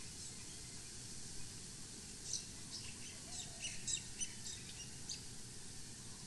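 Birds chirping faintly over low outdoor background noise, with a cluster of short, high chirps from about two to five seconds in.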